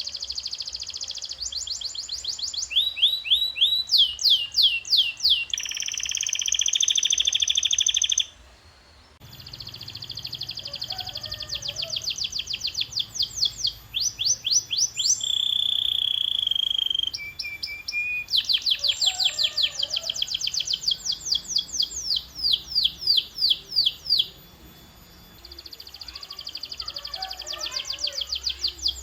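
Domestic canary singing a long rolling song: fast runs of repeated downward-sweeping whistled notes, about seven a second, alternating with steady buzzing trills, with two short pauses, one about eight seconds in and one near the end.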